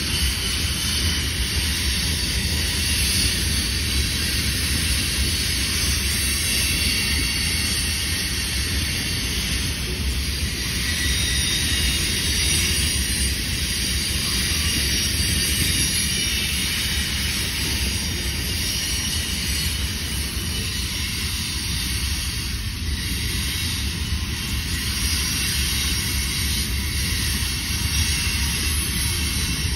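Steady rumble and hiss of a freight train of covered hopper cars rolling past at a distance.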